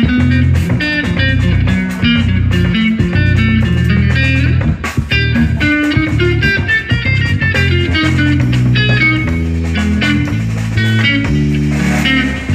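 Live instrumental jazz-blues band playing: electric guitar picking out short notes over a moving bass line, with drums keeping time.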